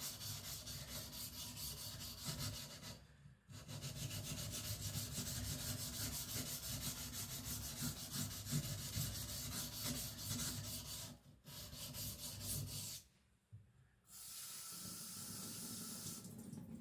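Carbon-steel (75CR1) knife blade stroked back and forth on a whetstone, a rapid scraping rub with brief breaks about three and eleven seconds in. The strokes stop about thirteen seconds in, and a steadier hiss follows near the end.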